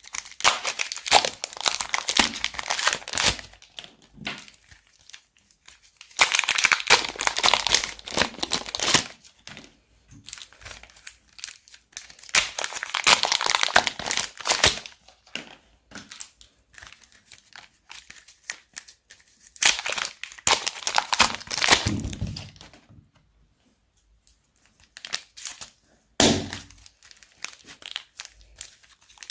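Plastic bags crinkling and crackling as they are squeezed and handled, in four bouts of a few seconds each, with a single thump about 26 seconds in.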